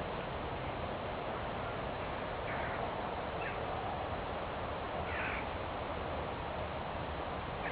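Four short bird calls, spaced a second or two apart, over a steady hiss of background noise.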